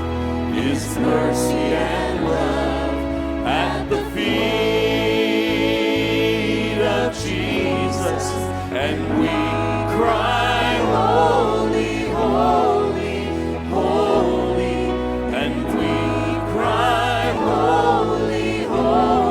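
Gospel worship music: a choir singing over instrumental accompaniment with sustained bass notes.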